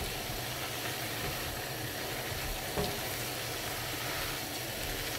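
Julienned Korean radish in perilla oil and its own juices sizzling in a frying pan over high heat as it is stirred with silicone spatulas. A single soft knock comes near the middle.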